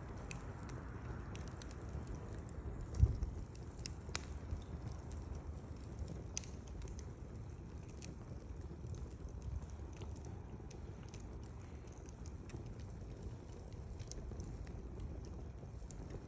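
Wood fire burning, with scattered sharp crackles and pops over a low steady rumble, and a dull thump about three seconds in.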